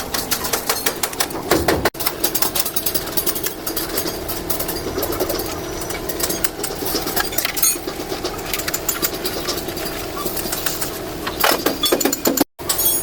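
Steady mechanical drone with rapid, irregular metallic knocking and clatter over it, briefly cut off twice.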